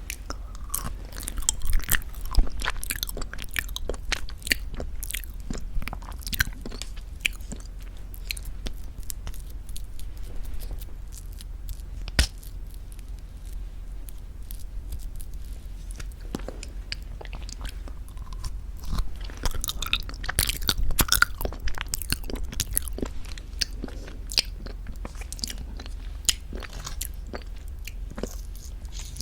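Close-miked eating of very thick Greek yogurt with honey: irregular sticky, wet mouth smacks and clicks, busiest near the start and again about twenty seconds in, with one sharp click about twelve seconds in.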